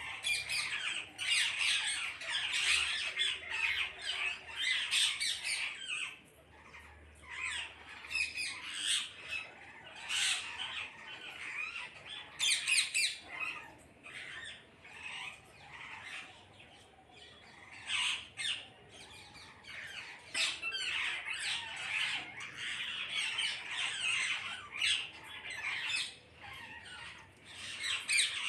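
A flock of parrots squawking and screeching together, many harsh calls overlapping without a break, louder for the first few seconds and again near the end.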